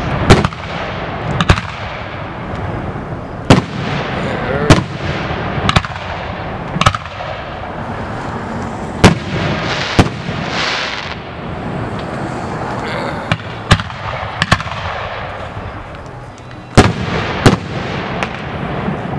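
Aerial fireworks shells bursting overhead, a dozen or more sharp bangs at irregular intervals over a continuous rumble. About ten seconds in, a crackling burst adds a spray of crackle.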